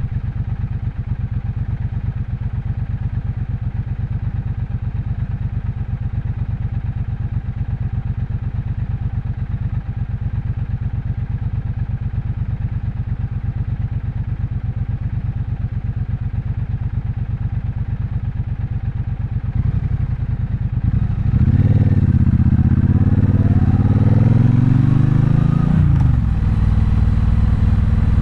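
Triumph Bonneville Bobber's 1200 cc parallel-twin engine running at low, steady revs with an even pulsing beat. About twenty seconds in it gets louder and revs up, dips at a gear change, climbs again, then eases off near the end.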